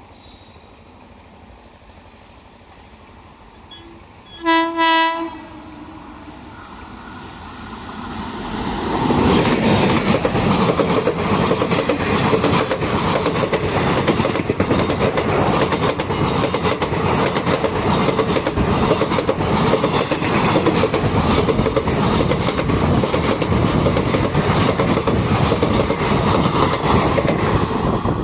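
An Indian Railways train sounds one short horn blast, then approaches and runs past at speed, the loud rush of the train carrying the steady clickety-clack of its wheels over the rail joints.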